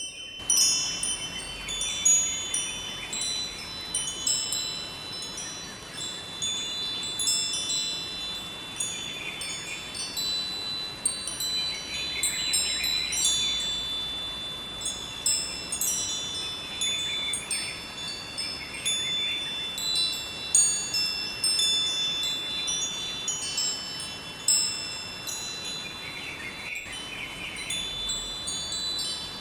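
Wind chimes ringing, struck again and again at irregular moments, with high overlapping tones that ring on. Beneath them runs the steady rush of a river.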